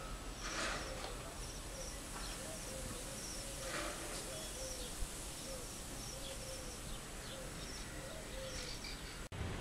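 Soft bird calls: a low note repeated steadily about twice a second, with faint high double chirps recurring over it.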